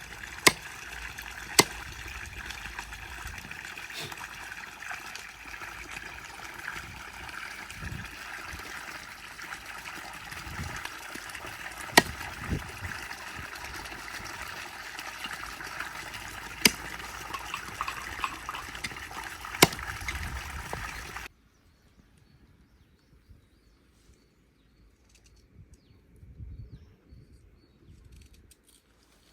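Water trickling and pouring steadily, with a few sharp clicks scattered through it. It cuts off suddenly about two-thirds of the way through, leaving only faint sounds.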